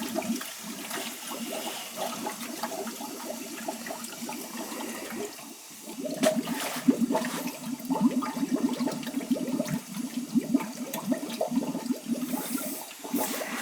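Hot-water heating system being purged: fill water rushing through the boiler piping with trapped air gurgling and sputtering in it, getting louder about six seconds in.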